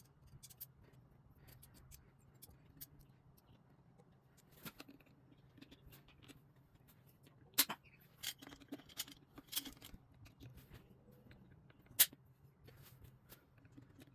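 Scattered light clicks and taps of small objects being handled, with two sharper clacks, about seven and a half and twelve seconds in, over a faint low hum.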